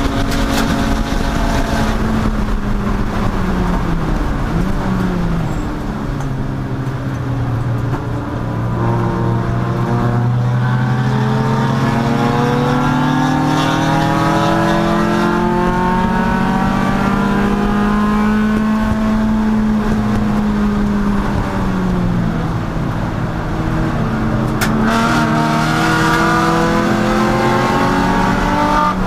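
Race car engine running hard at racing speed. Its pitch drops as the car slows around 5 seconds in, climbs steadily for a long stretch of acceleration, falls again about 21 seconds in, then rises once more. A brief sharp click comes near the end.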